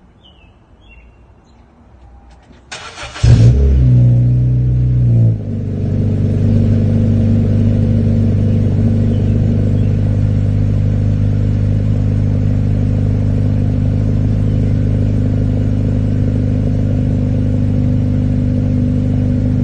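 A 2013 Honda Civic EX's 1.8-litre four-cylinder engine, breathing through a Greddy performance muffler, is started from cold. A brief crank about three seconds in catches into a loud high idle, which drops about two seconds later to a steady, low idle rumble from the exhaust. Faint bird chirps come before the start.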